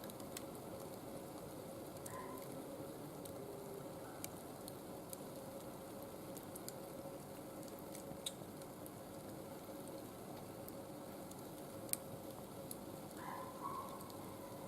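Wood fire burning: a steady soft hiss with scattered sharp crackles and pops, the loudest pop about twelve seconds in.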